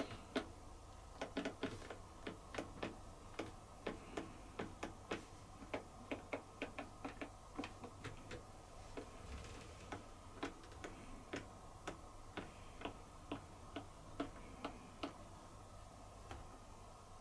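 Light, sharp clicks, irregular but often two or three a second, from the buttons of a Bosch dishwasher's control panel being pressed while it sits in a service-mode test program, over a faint steady hum.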